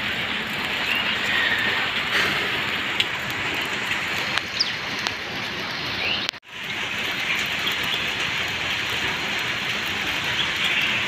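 Steady hiss of light drizzle falling on a paved road, with a few faint high chirps over it. The sound drops out abruptly for a moment about six seconds in.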